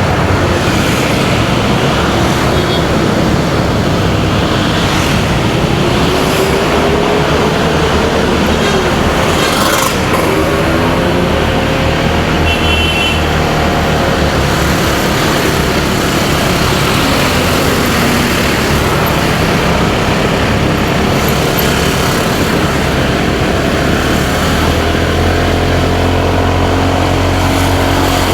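Motorcycle ride sound: engine running with its pitch rising and falling as the throttle opens and closes, mixed with steady wind rush and surrounding road traffic. A brief high beep comes about twelve seconds in.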